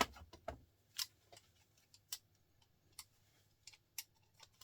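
Faint, sharp clicks and taps of small metal and plastic parts and a screwdriver being handled while a small printer motor is taken apart: a quick cluster at the start, then single clicks at irregular spacing about a second apart.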